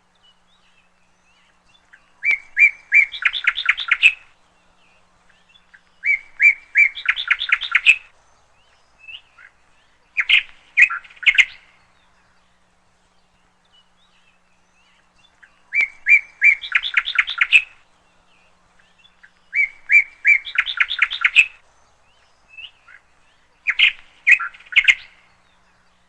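A bird singing six repeated phrases, each opening with a few evenly spaced notes and running into a fast series of chirping notes, with pauses of a couple of seconds between phrases.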